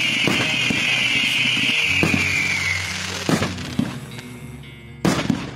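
Aerial firework sky shots: a loud rushing hiss of a spark-spraying shot that fades out about three seconds in, with several sharp bangs of shells firing and bursting, the sharpest near the end.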